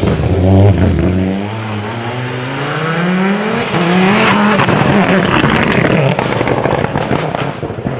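WRC rally car engine revving hard under acceleration, its pitch climbing, dropping at each gear change and climbing again.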